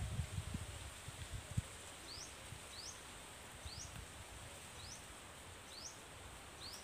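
A bird repeating a short rising chirp about once a second over a steady high insect hum. A few low knocks and rustles come in the first second and a half, from movement on the bank.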